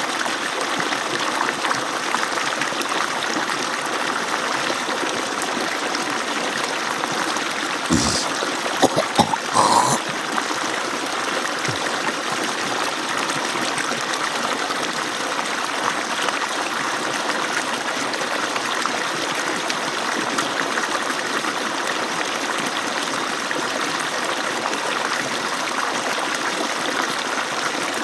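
Water pouring steadily from an agricultural pump's outlet, a constant rush of falling water. A few louder splashes or knocks break in about eight to ten seconds in.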